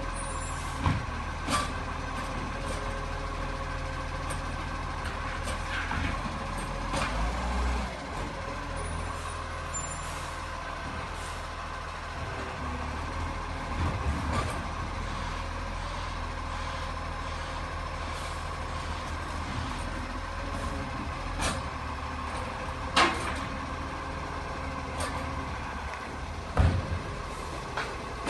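Garbage truck running steadily, with a few sharp knocks and clanks, two near the start and three in the last third.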